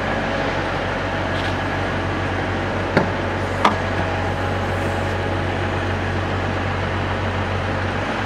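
Toyota Innova 2.5-litre diesel engine idling with a steady low hum. Two short sharp clicks come about three seconds in, just over half a second apart.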